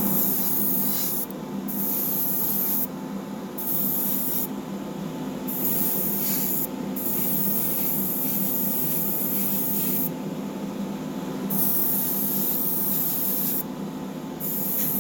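Airbrush spraying thinned medium-blue paint in repeated hissing bursts, with the trigger cut off for a moment between them, six or seven times. A steady low hum runs underneath.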